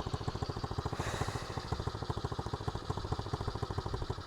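SSR110 pit bike's small single-cylinder four-stroke engine idling steadily, with an even, rapid putter.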